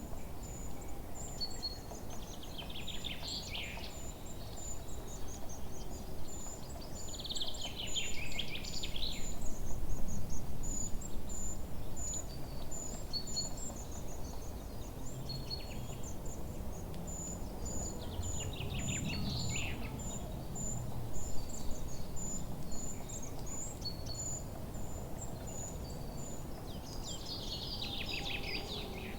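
Forest birdsong: a bird sings a descending trill about four times, over a steady run of very high, short chirps and a low background rush.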